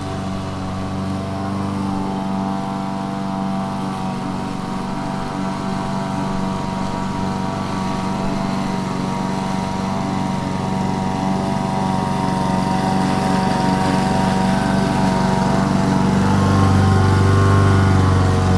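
Lawn mower engine running steadily while cutting grass, slowly growing louder as it passes closer, loudest near the end.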